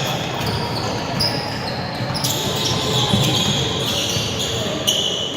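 Basketball game sounds in a gym: a ball bouncing on the court, high squeaks about two seconds in and near the end, and voices echoing in the hall.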